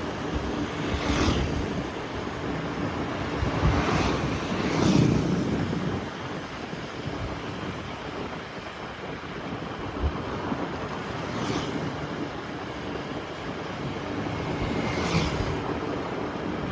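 Motorbike ride heard from the rider's own camera: a steady rush of wind over the microphone with the bike's engine running underneath. Other vehicles pass by several times, each one swelling up and fading away within about a second.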